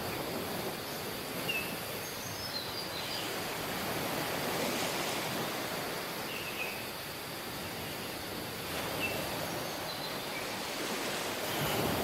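Sea surf washing onto a beach, a steady hiss that swells and eases, with a few short, faint bird chirps over it.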